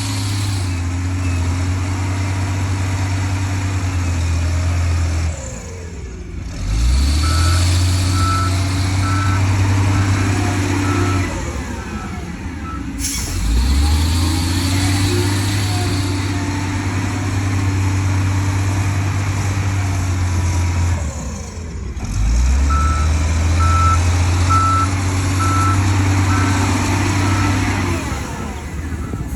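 Heavy diesel engine of earthmoving machinery running, its revs dropping and picking up again several times. Twice a reversing alarm sounds a run of short, evenly spaced beeps.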